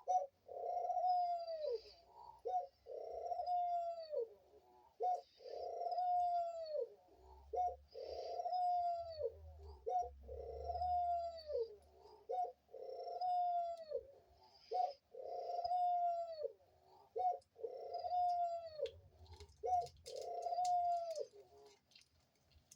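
A pet dove cooing over and over: a long arching coo followed by a short clipped note, repeated about ten times at roughly two-second intervals.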